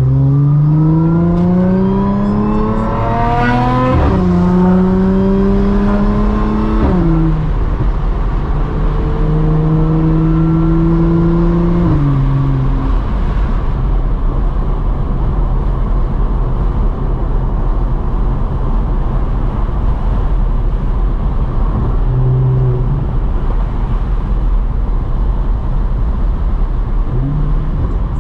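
A car engine accelerating hard. Its note climbs for about four seconds, then falls at an upshift, and two more short pulls each end in a drop. After that the engine settles into a steady low drone while cruising.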